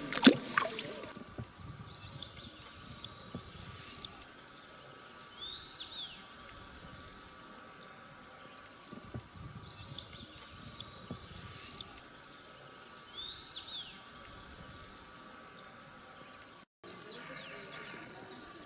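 A splash in the first second as a fish is let go into the water, then a small bird singing: a phrase of short high chirps and quick trills repeated over and over, in two runs of several seconds each with a pause between.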